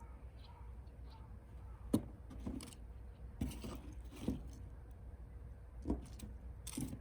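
A sharp knock about two seconds in, then several short rustling and scraping handling noises spaced a second or so apart, over a steady low rumble.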